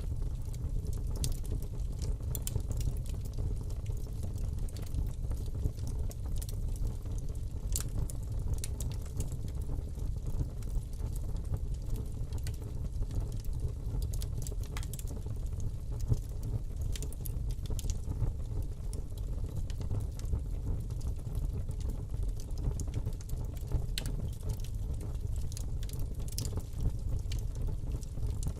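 Fire burning in a fireplace, crackling with irregular small pops and snaps over a steady low rumble.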